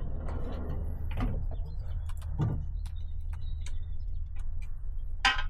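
Scattered knocks and clicks of cladding boards and tools being handled and fitted, with a sharper knock about five seconds in, over a steady low hum.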